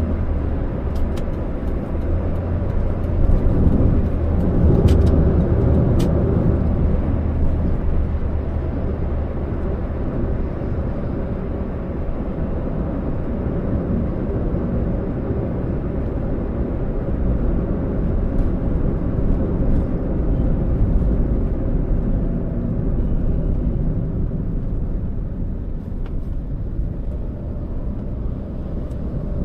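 Toyota Allion sedan on the move: a steady, low road and engine rumble, with a few faint clicks in the first six seconds.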